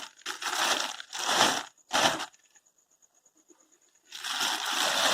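Packaging being opened, crinkling and tearing. There are several short bursts of rustling in the first two seconds, a quiet gap of about a second and a half, then a longer stretch of rustling near the end.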